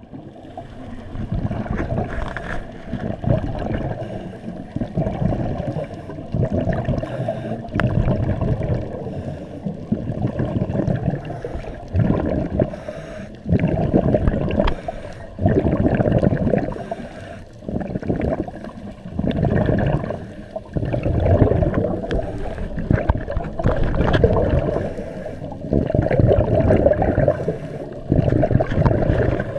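Scuba diver's breathing heard underwater: regulator exhaust bubbles gurgling in muffled surges about every two to three seconds.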